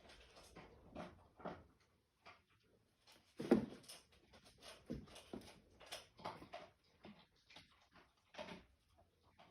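A border collie's paws scuffling and thumping on the floor in irregular bursts as she pounces after a light reflection. The loudest thump comes about three and a half seconds in.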